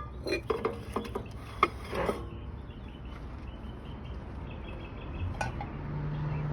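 Stoneware and metal bakeware being handled and set down: several light knocks and clinks in the first two seconds, over a low wind rumble. A steady low hum comes in near the end.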